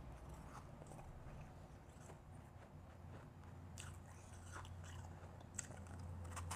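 Close-miked chewing and crunching of a mouthful of refrozen, powdery blended ice, with a few sharp crunches in the second half over a steady low hum.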